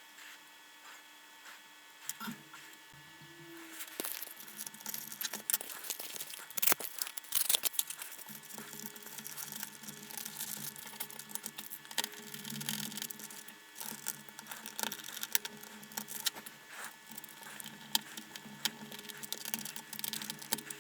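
Dense small clicks, taps and crinkly rustling of hands handling wires, small parts and tools at a workbench, starting about four seconds in.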